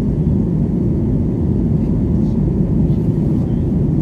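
Boeing 737 MAX 8 on takeoff, its CFM LEAP-1B turbofans and airflow making a steady, even, low rumble.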